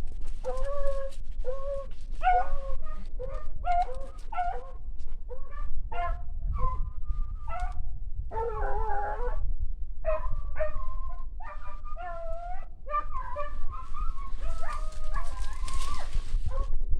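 A pack of hunting hounds baying and yelping in short, repeated, overlapping cries as they work a rabbit's trail.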